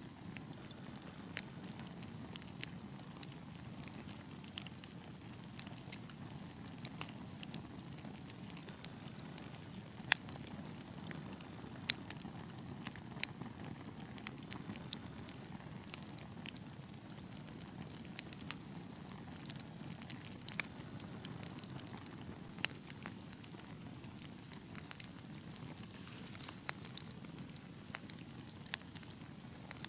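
Wood fire burning in a fireplace: a steady low rumble of flames with irregular sharp crackles and pops, the loudest pop about ten seconds in.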